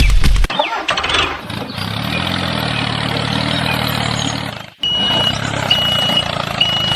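A truck engine runs steadily after some knocking at the start, then cuts out and a reversing alarm beeps three times, about a second apart, near the end.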